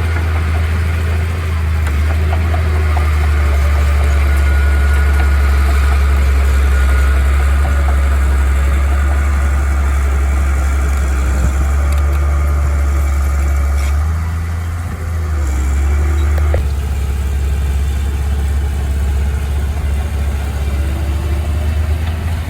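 Heavy earthmoving machine's engine running steadily with a low drone, its note shifting suddenly about sixteen seconds in.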